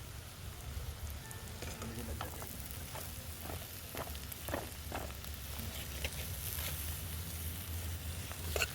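Hot oil sizzling in a pan over a wood fire, with scattered sharp pops over a low steady rumble; the sizzle grows louder near the end.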